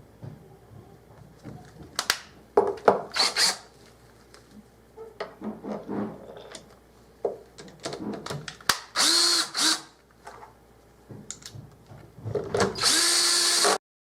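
Scattered knocks and clatter of handling, then two short runs of a small power-tool motor, about nine seconds in and again near the end, the second cut off suddenly.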